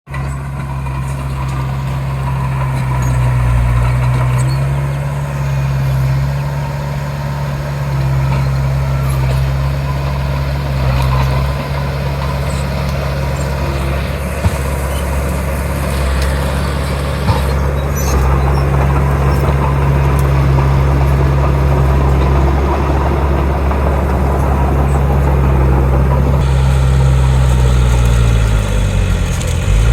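Heavy diesel earthmoving machinery running steadily at work, a deep engine drone with a couple of sharp knocks midway and a dip in engine pitch near the end.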